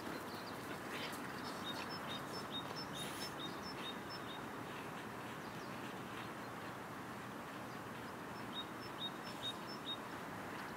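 A small songbird singing a run of short, high chirps, about three a second, twice, over steady outdoor background noise.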